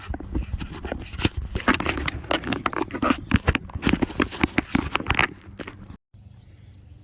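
Handling noise from a camera being fixed onto a tripod: a rapid jumble of close knocks, clicks and scrapes. It cuts off about six seconds in, leaving a faint steady hum.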